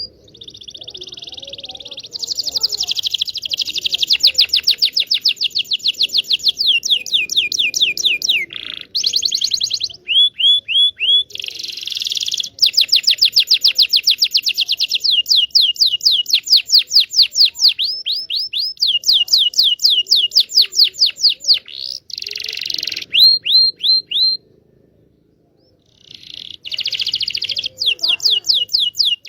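Domestic canary singing: long rapid trills of repeated falling notes, several phrases in a row, with a break of about two seconds near the end before the song starts again.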